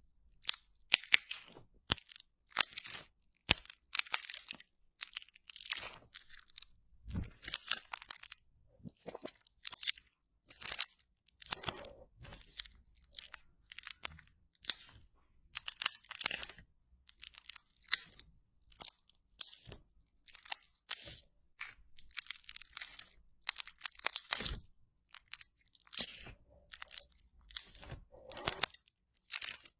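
Slime worked by hand close to the microphone, giving crunchy, crackling bursts that come irregularly about once a second with brief pauses between.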